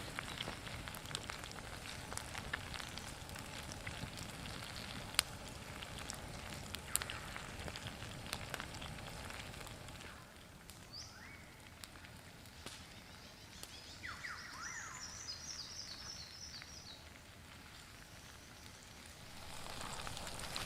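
Campfire crackling with scattered sharp pops, busier in the first half. Midway a bird gives a short whistle, then a quick run of descending chirps.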